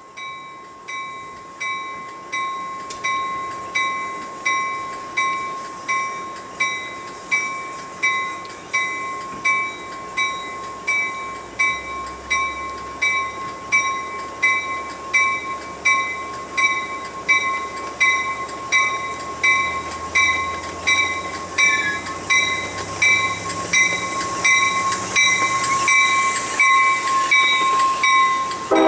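Railroad grade-crossing warning bell ringing steadily at about one and a half dings a second. The rumble of an approaching train builds under it in the second half and grows louder toward the end.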